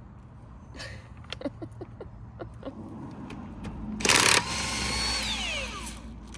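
Scattered clicks and knocks, then about four seconds in a power tool gives a short loud burst, followed by a hiss and a whine that falls in pitch as it winds down.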